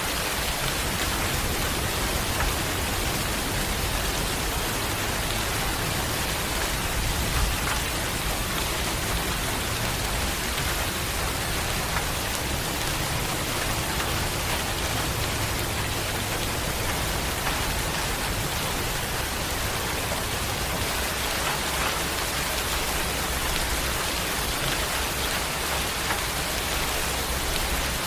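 Steady heavy rain falling on a surface, a dense even hiss with a low rumble underneath and scattered drop ticks.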